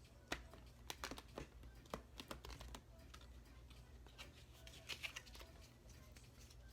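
Thick, oversized archetype cards being shuffled by hand: a scatter of soft card slaps and taps, most of them in the first three seconds, with a few more about five seconds in.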